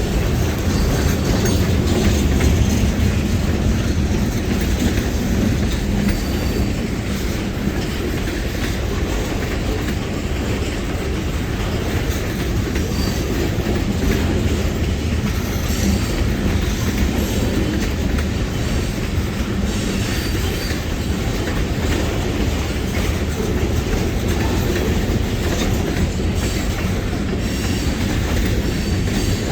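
Freight cars of a long train rolling past steadily, wheels clacking over rail joints, with some wheel squeal.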